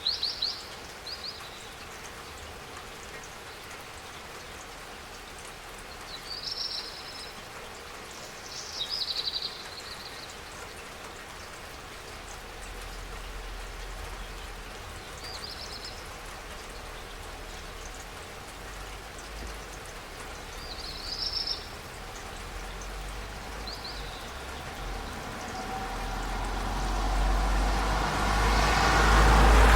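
Steady spring rain falling, with a bird's short high chirps every few seconds. Near the end a passing car's tyre and engine noise swells steadily louder.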